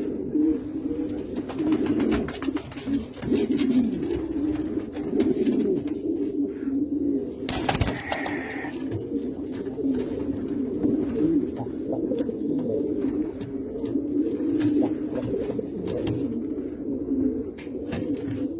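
Several domestic pigeons cooing continuously, their calls overlapping. There is a short sharp noise about eight seconds in.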